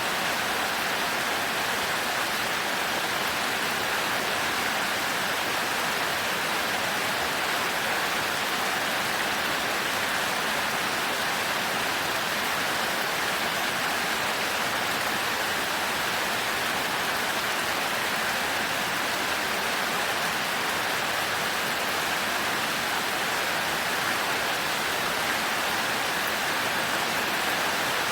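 Heavy rain falling steadily on a thatched roof: an even, unbroken hiss with no thunder.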